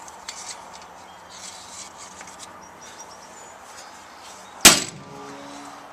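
Faint steady outdoor background, broken about four and a half seconds in by one sharp knock, which leaves a faint ringing tone for a moment after it.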